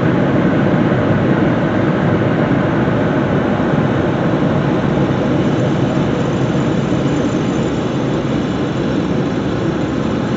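Car wash air dryer blowers running, a steady loud rushing of air over the car.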